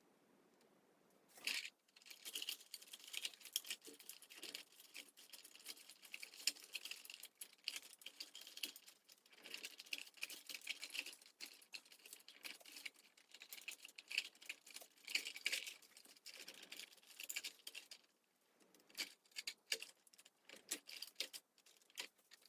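Dense, rapid crackling and clicking of craft materials being handled, thinning to scattered clicks for the last few seconds.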